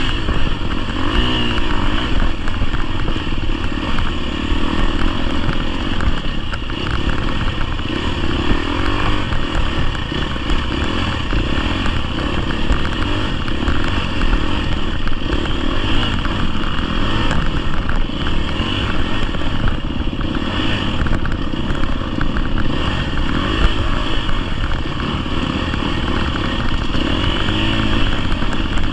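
GasGas EX250F dirt bike's 250cc four-stroke single-cylinder engine running under riding load, its pitch rising and falling with the throttle.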